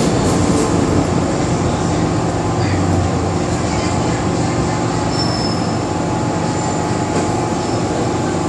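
MTR Island Line metro train running through the tunnel, heard from inside the car as a steady loud rumble of wheels on rail. A brief high wheel squeal comes about five seconds in.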